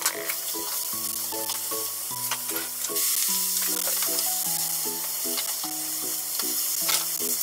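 Yellowtail and daikon pieces sizzling as they fry in a frying pan, a steady hiss that grows louder about three seconds in.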